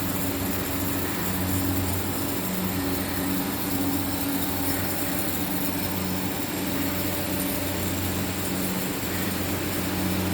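Machinery of a steam-heated mawa-making plant running steadily: a constant hiss over a low motor hum that swells and fades in a slow, even rhythm, a little more than once a second.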